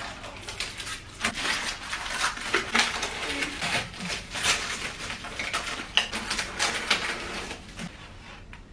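Parts of a chrome IKEA furniture kit handled during assembly: a steady run of irregular metallic clinks, knocks and rattles.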